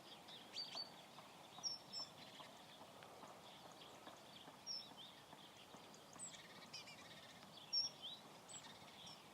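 Faint birdsong: short, high chirps scattered every second or so over a soft steady hiss.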